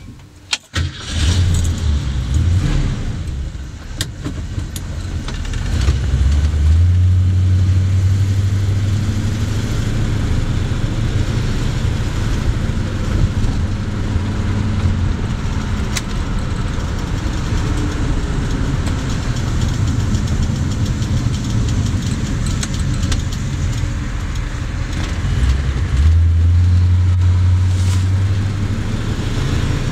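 1966 Ford Mustang engine, heard from inside the cabin, started with the key about a second in. It idles, then runs under load as the car drives off, with the engine note rising at about seven seconds and again near the end as it accelerates.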